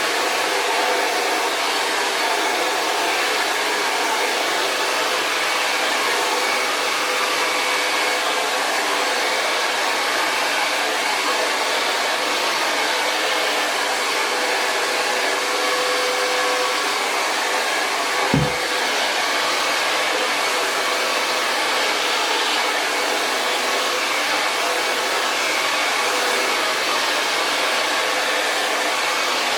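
Hair dryer blowing steadily on thick natural hair, with one brief low thump about two-thirds of the way through.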